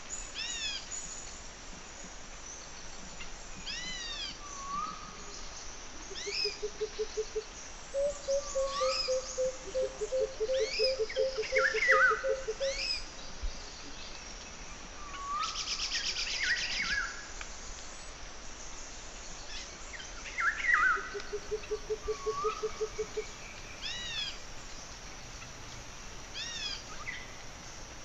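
Birds singing and calling: repeated series of short, high chirps throughout, with a low rapid trill three times.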